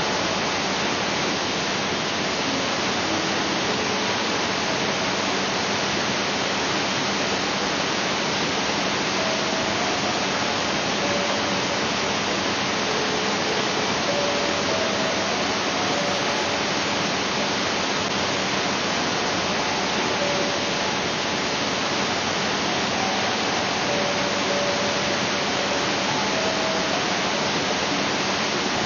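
Waterfall: a steady, unbroken rush of falling water. Faint short tones are scattered through it.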